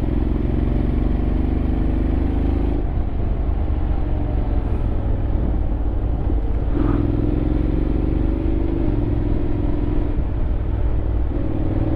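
Honda X-ADV 750 parallel-twin engine running under way, its note rising and falling with the throttle: it drops back about three seconds in and pulls again near seven seconds and near the end, over a steady low rumble of wind and road.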